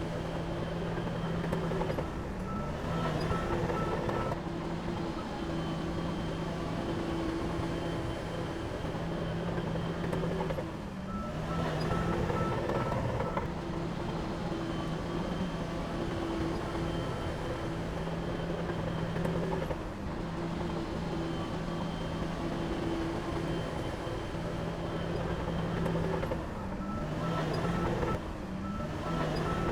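Diesel engine of heavy earthmoving equipment running steadily, with a reversing alarm beeping rapidly in three spells: a few seconds in, about halfway, and near the end.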